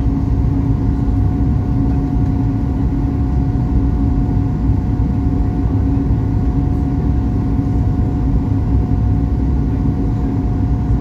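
Steady cabin noise of a Boeing 737 MAX 8-200 airliner with CFM LEAP-1B engines: an even, heavy roar of engines and airflow with a constant low hum running through it, unchanging and with no distinct bumps or clunks.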